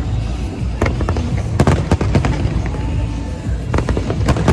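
Fireworks exploding: a rapid scatter of sharp cracks and bangs over a continuous low rumble of shell bursts.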